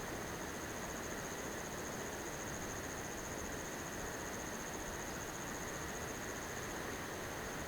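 An insect trilling continuously at a high pitch over a steady, even hiss.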